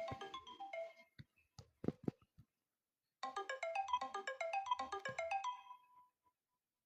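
Mobile phone ringtone playing a quick marimba-like melody, broken off about a second in by a few sharp knocks. The melody starts again about three seconds in and ends on a lingering note.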